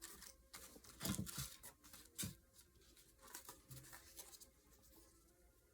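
Very quiet room with faint rustling and a few soft handling noises.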